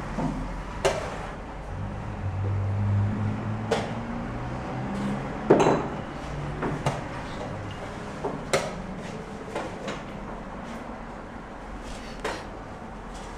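Chess pieces set down on a board and a chess clock pressed during a rapid game: about ten sharp, separate clicks and knocks a second or more apart, the loudest about five and a half seconds in.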